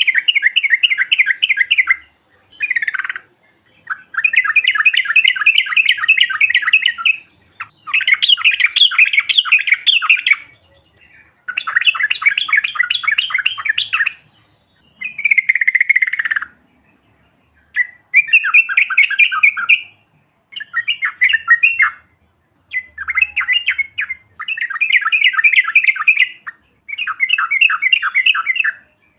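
Yellow-vented bulbul (trucukan) singing its long, rapid chattering song in repeated bursts of one to three seconds, with short pauses between.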